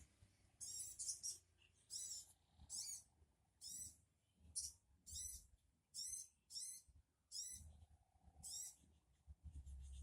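Bird calls of the sogon bird, a recording made for luring the bird in. Short, high-pitched call notes, each sweeping up and down in pitch, repeat about once a second with uneven gaps and grow faint near the end.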